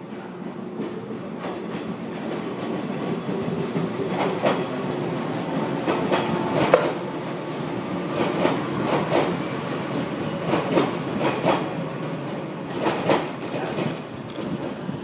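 JR Kyushu 415 series electric train running past on the track alongside, its wheels clicking in quick pairs over the rail joints every second or two above a steady rumble. The sound swells over the first few seconds as the train comes alongside.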